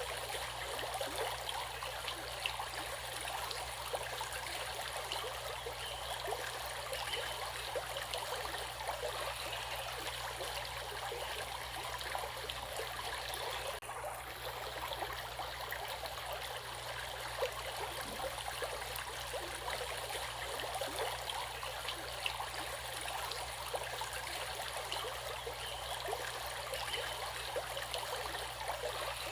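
Steady running water of a stream, splashing and trickling over rocks.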